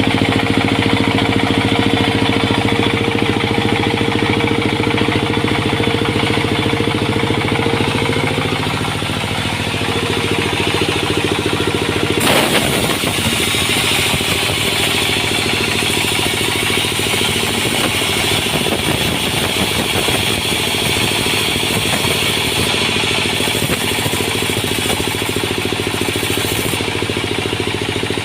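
Sawmill engine running steadily. About halfway through the sound changes and a harsher hiss joins it and carries on.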